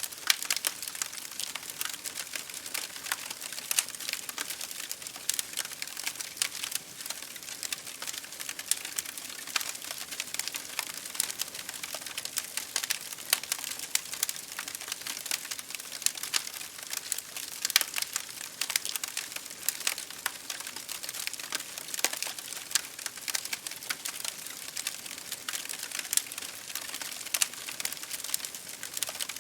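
Wood fire crackling in a fireplace, with frequent irregular sharp pops, over a steady hiss of rain hitting a window.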